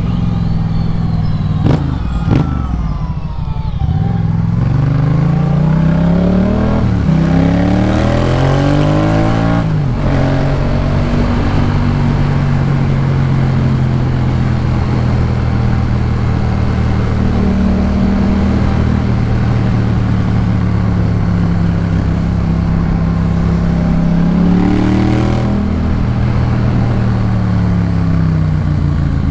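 Yamaha MT-07's 689 cc parallel-twin engine through a Jeskap K4 full aftermarket exhaust, under way. It accelerates through the gears a few seconds in, the pitch climbing and dropping at each shift. It then holds a steady cruise, with another short rise and fall near the end.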